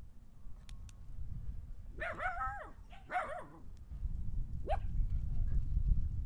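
Two animal calls about a second apart, each bending up and then down in pitch, followed by a brief rising squeak; a low rumble underneath in the second half.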